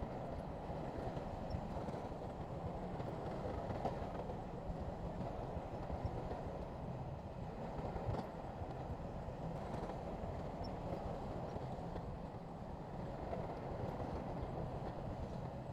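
Crawler bulldozer's diesel engine running steadily under work, a continuous low mechanical drone.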